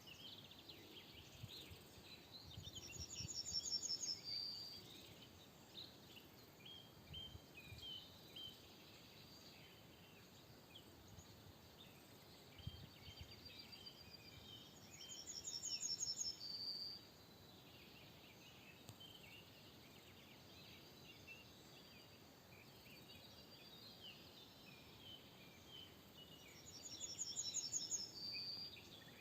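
Faint outdoor birdsong: one songbird sings a high, fast trilled phrase ending on a short lower note, three times about twelve seconds apart, over a steady background of scattered chirps from other birds.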